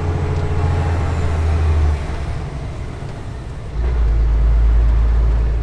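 Scania R420 truck's six-cylinder diesel engine droning steadily under way. About two seconds in the drone drops and quietens, and from nearly four seconds in it comes back deeper and louder.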